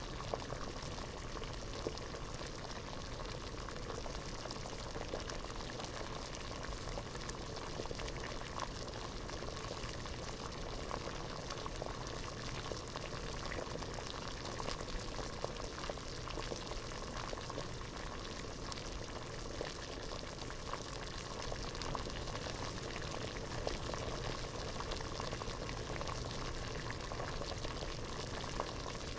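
Water boiling in a pot, a steady dense bubbling with many small pops.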